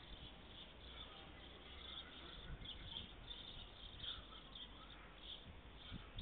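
Faint outdoor ambience with short, distant bird chirps.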